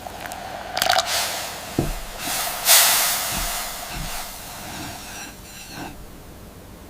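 Food sizzling in a hot pan, starting suddenly and swelling to its loudest nearly three seconds in before dying down.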